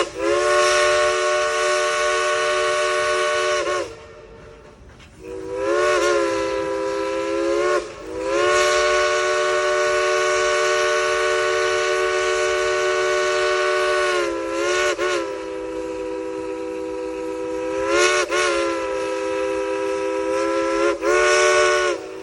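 Three-chime steam whistle of steam locomotive No. 70 played as a tune: a chord of several notes blown in long and short blasts, each sliding up as the valve opens and down as it closes, with a hiss of steam. A long blast ends about four seconds in, then several more long blasts follow, broken by quick short toots.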